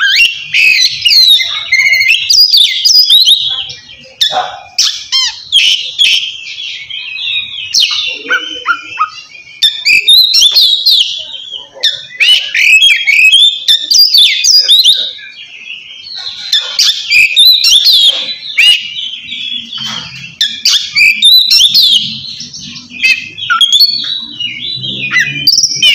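Oriental magpie-robin singing a loud, full song: a rapid, varied run of clear whistles, slurred glides and harsh chattering notes, broken only by short pauses. This is the kind of song a male uses to challenge a rival.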